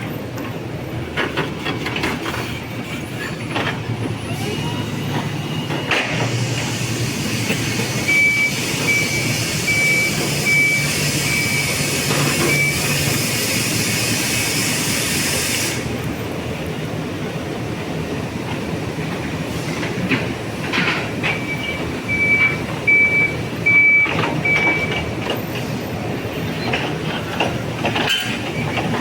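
High reach truck at work: a steady mechanical hum with scattered knocks and clanks, and twice a run of evenly spaced high warning beeps, about one and a half a second. A hissing rush comes in about six seconds in and cuts off suddenly some ten seconds later.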